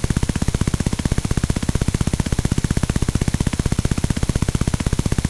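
A rapid, evenly spaced string of short, sharp hits in the manner of machine-gun fire, a sound effect repeated without a break.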